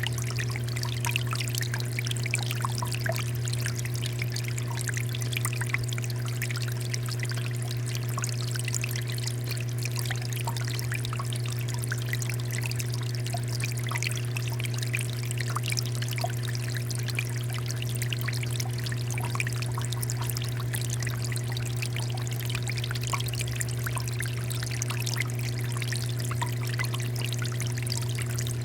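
Water fountain running, water pouring and splashing steadily over a steady low hum.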